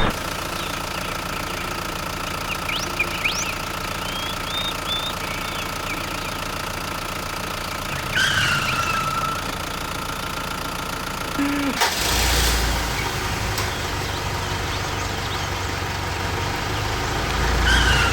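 A small motor or engine running steadily, with a sudden change in its sound about two-thirds of the way through, and short high chirps over it now and then.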